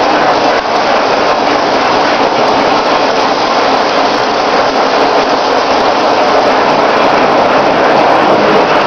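Lionel O-gauge model train running on Super O track: a loud, steady noise that holds without a break.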